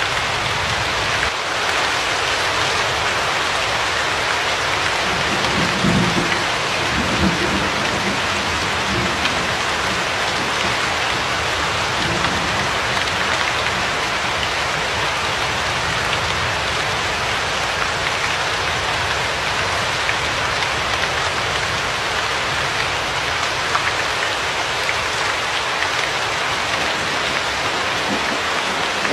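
Steady rain, a dense even hiss, with a brief low rumble of distant thunder about six seconds in.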